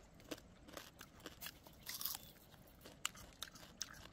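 A person chewing crisp fried meat close to the microphone: a run of small crunches and wet clicks, with a louder crunch about halfway through.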